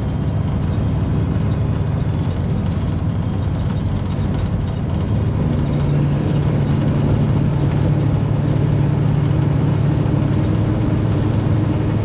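Semi truck engine running steadily with road noise while driving at speed. The low engine hum grows stronger about halfway through, and a faint high whine rises and then falls.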